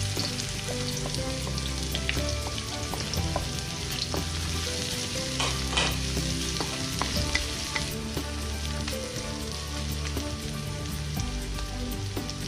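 Onion and minced garlic sizzling in hot oil in a carbon-steel wok, sautéed as the base of a stir-fry, with a wooden spatula stirring and now and then scraping or knocking against the pan.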